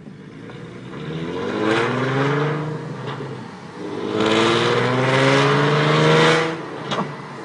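2012 Mustang 3.7L V6 with Borla long-tube headers, off-road X-pipe and ATAK cat-back, running without catalytic converters, accelerating hard. The exhaust note rises in pitch, drops at a gear change about three and a half seconds in, then climbs again.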